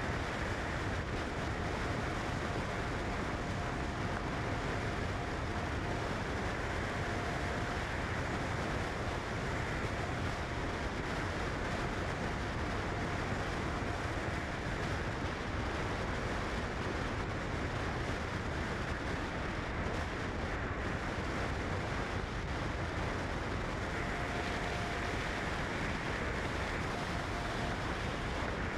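Steady road and wind noise of a car driving, an even rush at a constant level, with a faint thin tone that comes and goes.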